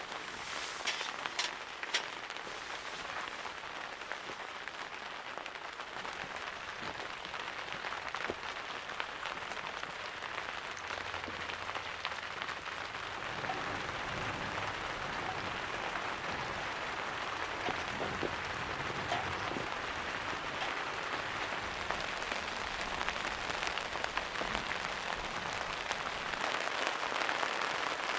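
Steady rain falling, a dense, even crackle of drops, with a few sharper clicks about one to two seconds in and growing a little louder toward the end.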